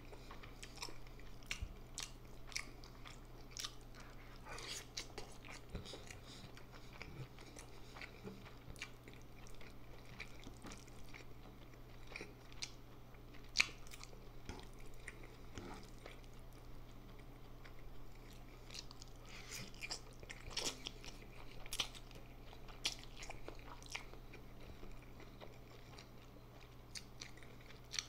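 Close-miked eating of instant noodles and chicken: wet chewing and biting with irregular mouth smacks and clicks, a few sharper than the rest, over a faint steady low hum.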